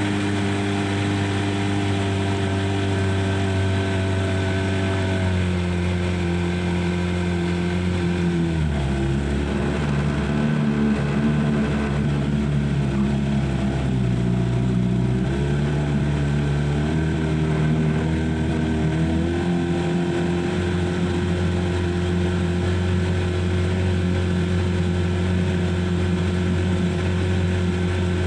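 An engine running steadily, then slowing in two steps early on, holding low for several seconds and speeding back up in steps to its former speed.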